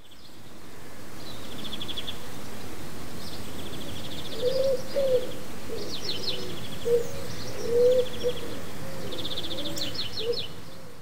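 Birds singing over a steady rushing background noise: repeated rapid high trills and lower warbling calls. The sound fades in at the start and fades out near the end.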